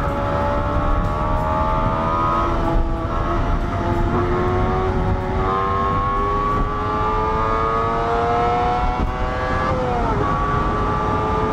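Honda Civic Type R's engine pulling hard under full acceleration, heard from inside the cabin over road and wind noise. Its pitch climbs steadily through the gears and drops sharply about ten seconds in at an upshift, then starts climbing again.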